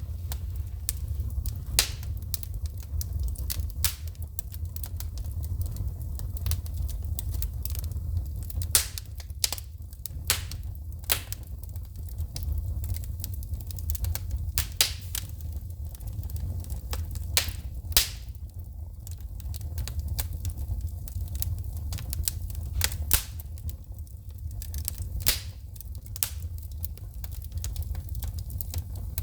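Wood fire in a fireplace crackling, with irregular sharp pops and snaps of shooting sparks, a few much louder than the rest, over a steady low rumble.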